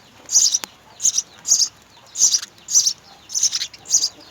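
House sparrows chirping: a steady run of short, high chirps, about two a second.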